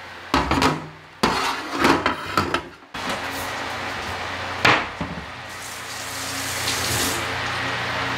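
Kitchenware clatter: a frying pan, metal tray and containers knocked and set down, with several sharp clatters in the first three seconds and one loud knock about halfway through, over a steady hiss.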